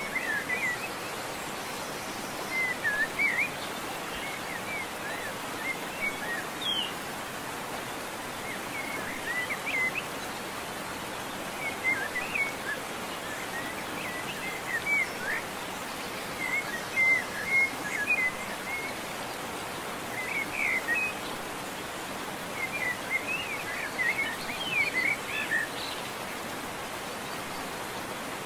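Small birds chirping in short clusters every few seconds over a steady hiss.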